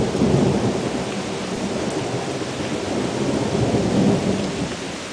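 Thunder rumbling over steady rain, swelling just after the start and again about four seconds in, then easing off.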